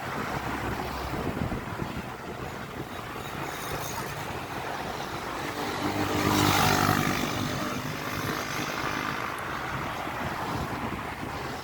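Road traffic noise with wind on the microphone, and a motor vehicle's engine passing close and loud about six seconds in, swelling and then fading.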